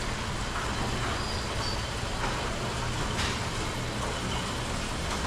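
A vehicle engine idling steadily, a low even hum under a wash of noise.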